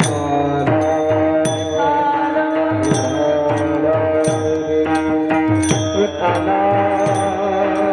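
Kirtan accompaniment: a harmonium holds a steady drone and melody, with low drum strokes that drop in pitch and crisp hand-cymbal clashes keeping a steady beat.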